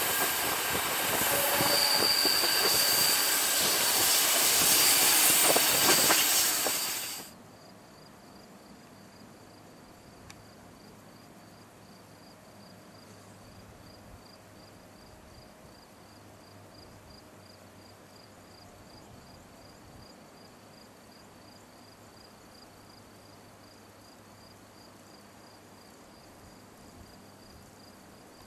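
Rhaetian Railway train heard from on board, running loudly with a brief high wheel squeal on the curve. About seven seconds in it cuts off abruptly to quiet open-air background with an insect chirping in a steady rapid pulse.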